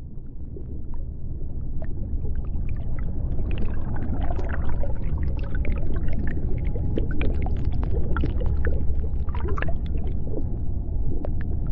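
Underwater ambience: a deep, steady rumble scattered with many short clicks and brief chirping calls, fading in over the first few seconds.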